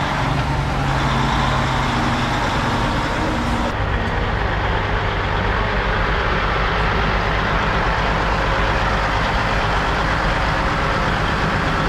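Heavy truck's diesel engine running steadily, its low drone shifting in pitch about four seconds in.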